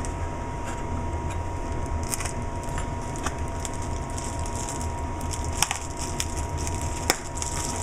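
Plastic packaging being slit with a razor blade and pulled open, crackling in scattered small clicks with two sharper snaps late on, over a steady low hum.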